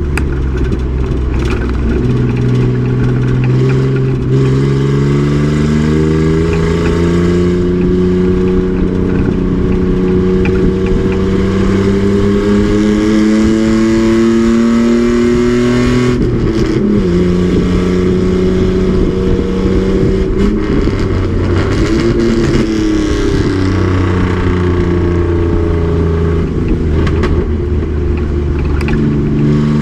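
Race truck's engine pulling on track: the revs climb steadily for about fourteen seconds, then drop suddenly about halfway through. It runs at lower, steadier revs before picking up again near the end.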